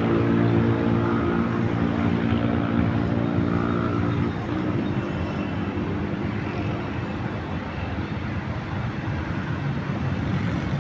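A low, steady engine hum that stops about four seconds in, leaving the even rush of city background noise.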